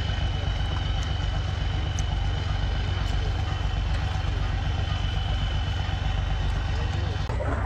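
An engine running steadily at idle, a low, evenly pulsing rumble with a faint steady high whine above it.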